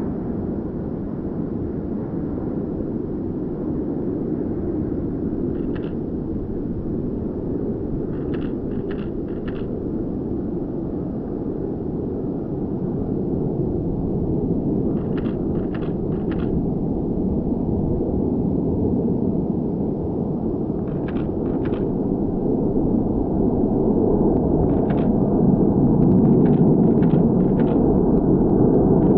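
Antonov An-12BK's four Ivchenko AI-20 turboprop engines on landing approach: a steady low drone that grows gradually louder toward the end.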